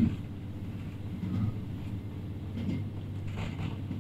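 Cabin sound of a JR Hokkaido H100 (DECMO) diesel-electric railcar running at speed: a steady low drone with a few dull knocks from the running gear, the loudest right at the start.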